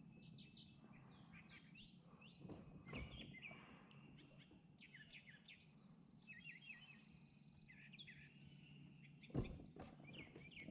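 Faint birdsong from several birds: quick repeated chirps and whistled notes, with a buzzy trill about halfway through, over a faint low hum. Two soft low thumps, one about three seconds in and one near the end.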